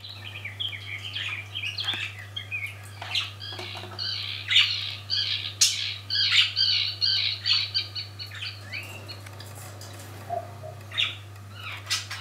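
Pet budgerigars chattering with rapid chirps and squawks, busiest in the middle and thinning out near the end, over a steady low hum.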